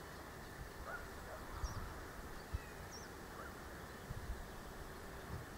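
Faint outdoor ambience with a few short, high bird chirps and several soft low thumps.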